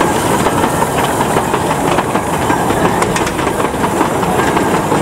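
Small steam train running past close by, its carriage wheels clicking and rattling irregularly on the track.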